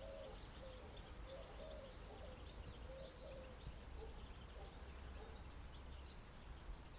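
Faint outdoor ambience: birds chirping again and again over a low steady rumble.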